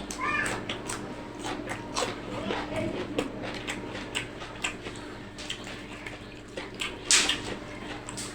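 Close-up eating sounds: chewing, lip smacks and crunches from a fish curry meal with cucumber and chili, with a louder crunch about seven seconds in. A brief high call sounds just after the start.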